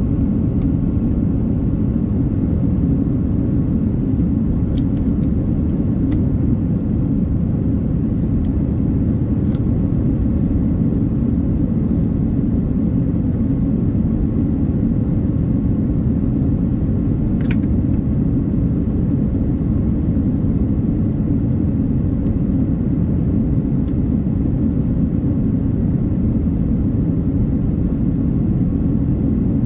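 Steady low rumble of engine and airflow inside the cabin of an Airbus A330-900neo with Rolls-Royce Trent 7000 engines, with a faint steady hum and a few small clicks.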